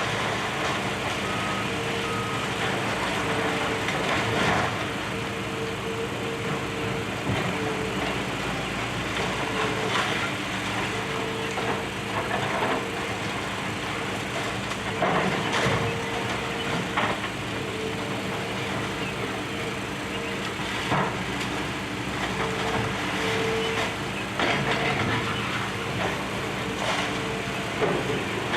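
Demolition excavator's diesel engine running steadily, with repeated crunches and clanks of building debris being broken and dropped.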